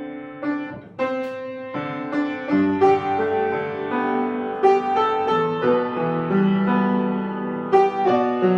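Solo piano played: separate struck notes at first, then fuller chords over a sustained lower part from about two and a half seconds in.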